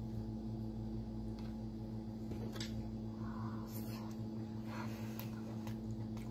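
A steady low hum, with a few faint, scattered wet clicks of chewing on braised abalone over it.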